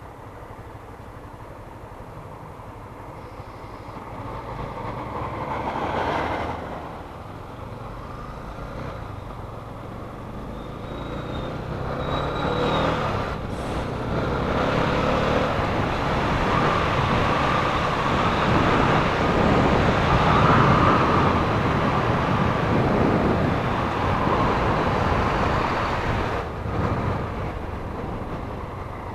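Road traffic noise heard while riding: a vehicle swells past about six seconds in, and traffic grows louder from about twelve seconds and stays up through most of the rest.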